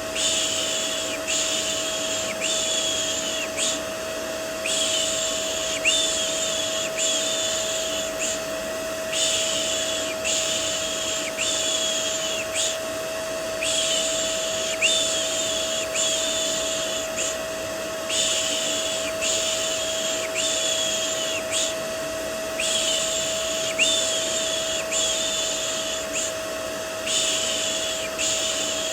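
Vacuum cleaner running steadily with a constant whine, used as white noise for a baby. Over it a person makes soothing "shh" sounds, about one a second, in runs of several with short pauses between.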